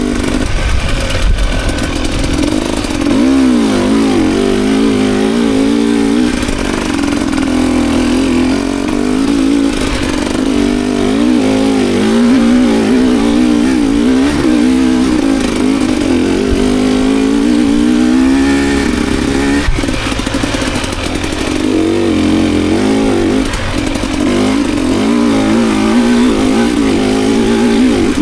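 Enduro dirt bike engine being ridden hard, its pitch rising and falling constantly as the throttle is worked on and off, with a sharp knock about twenty seconds in.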